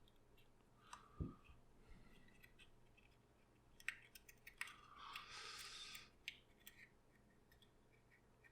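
Faint handling of papercraft paper: scattered light clicks and taps, and about five seconds in a rasping sound lasting just over a second.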